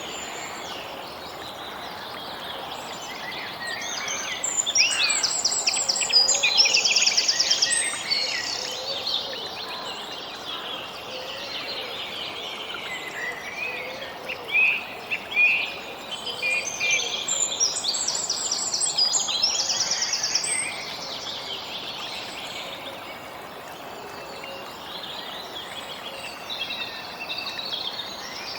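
Several songbirds chirping and trilling over a steady background hiss. The song grows busier about four seconds in and again around seventeen seconds.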